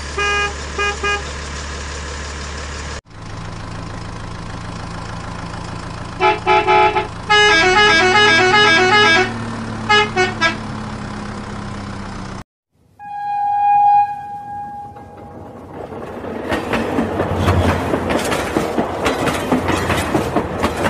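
Battery-powered toy vehicles: a steady electric hum with short electronic horn beeps, then a quick beeping tune over a motor whine that rises in pitch. After a sudden break about twelve seconds in comes a single horn toot, then the rattling run of a toy train on plastic track, growing louder.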